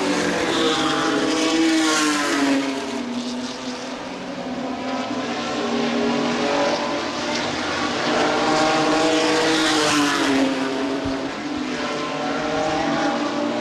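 Race trucks' engines running at speed around a paved oval, with the engine note swelling and dropping in pitch as the field passes, about twice.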